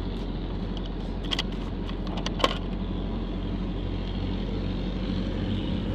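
A truck's engine running steadily on the road, a low even drone, with a few light clicks or rattles, the sharpest about two and a half seconds in.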